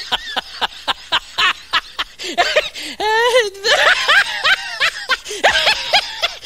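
A person laughing hard: a rapid string of high-pitched cackles and snickers, about five a second, broken by a drawn-out squealing laugh about three seconds in.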